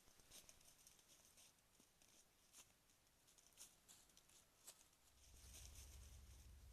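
Near silence: faint scattered rustles and ticks, with a low rumble coming in about five seconds in.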